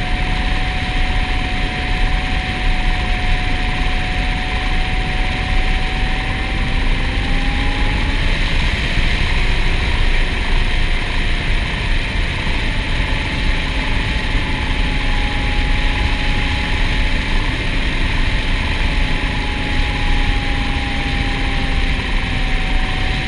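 Quadcopter drone, a 3DR Solo, in flight: motors and propellers running steadily, a whine that drifts slightly up and down in pitch over a steady rushing noise.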